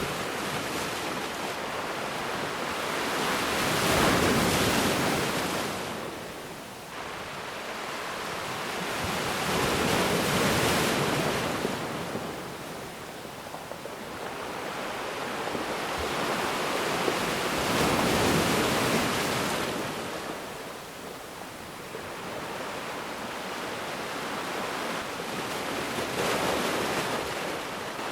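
Ocean waves breaking on a beach: a steady wash of surf that swells and ebbs, with a louder wave about every six to eight seconds.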